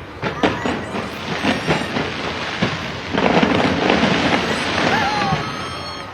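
Aerial display fireworks going off: a run of sharp bangs, then from about three seconds in a loud, dense stretch of crackling bursts.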